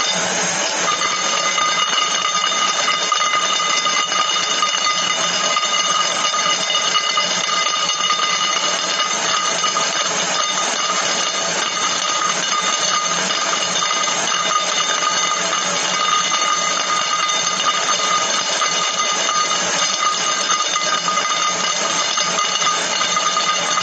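Continuous, very rapid clicking at a steady level, blended with a steady high ringing, unchanged throughout.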